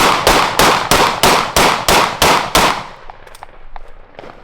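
A consumer multi-shot firework firing a rapid, regular string of loud reports, about three a second, that stops abruptly just under three seconds in. Faint scattered pops and crackles follow.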